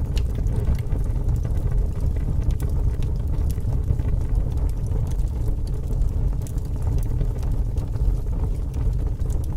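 Crackling fire: a steady low rumble of flames with scattered small crackles and pops.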